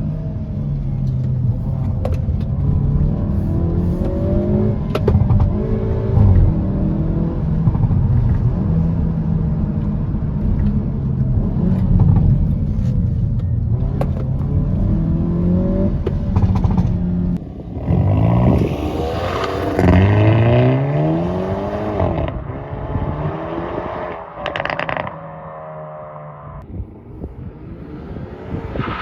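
Hyundai i30 N's turbocharged four-cylinder engine and exhaust running at wavering, moderate revs with scattered sharp pops and crackles. Just past halfway it revs up hard several times, each rising pitch breaking off at a gear change, then drops back quieter before climbing again near the end.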